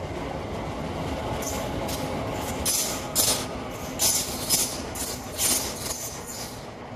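Passenger train running past and into a tunnel: a steady rumble, with a run of sharp clacks from the wheels starting about a second and a half in and dying away shortly before the end.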